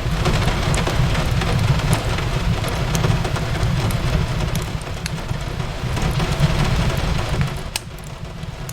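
Steady rain on a window over a deep, even rumble, with a wood fire crackling in scattered sharp pops.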